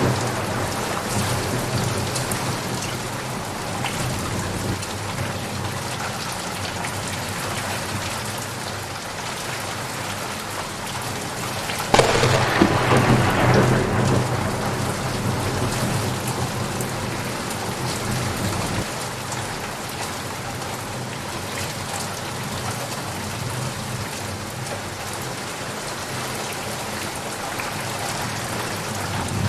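Steady rain falling, with a thunder rumble dying away in the first couple of seconds. About twelve seconds in a sudden sharp thunderclap cracks, and its rumble fades over the next few seconds.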